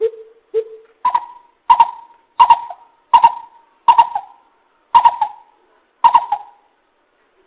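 Coucal (bìm bịp) call played as a lure: a series of hollow hoots, two lower notes first, then a run of about seven higher hoots spaced a little under a second apart.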